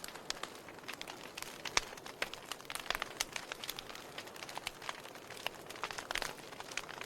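Wood fire in a fireplace crackling: irregular sharp pops and snaps of burning logs over a soft steady hiss of flame.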